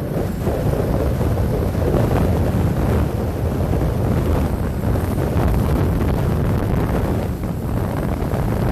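Wind rushing over the microphone of a camera on a moving motorcycle, with the motorcycle's engine and road noise underneath; a steady, loud rush.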